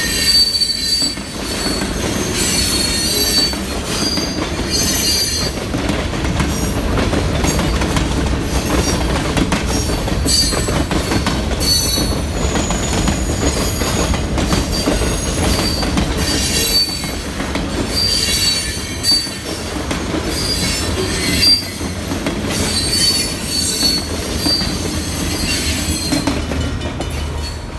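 Pan Am Railways freight train's cars rolling past, with a steady low rumble and wheels squealing on and off again and again.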